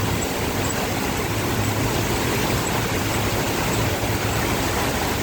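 Heavy rain pouring down in a steady, even hiss, with a faint low hum underneath.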